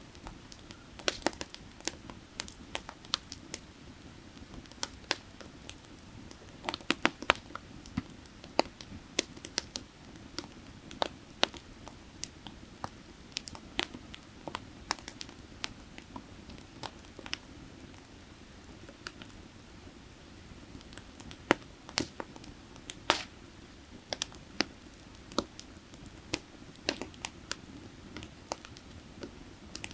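Burning firewood crackling, with irregular sharp snaps and pops, some in quick clusters, over a soft, steady low rush.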